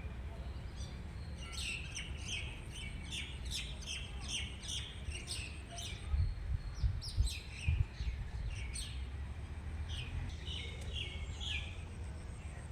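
Small birds chirping in quick runs of short, downward-sliding notes, in three bouts, over a low rumble with a few dull bumps about halfway through.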